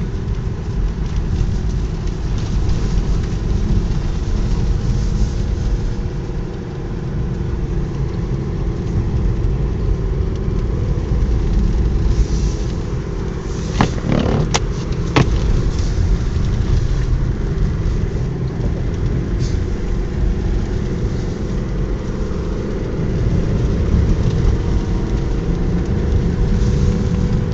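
Car driving on a snowy road, heard from inside the cabin: a steady low engine and tyre rumble with a faint engine hum. Two or three sharp clicks about halfway through.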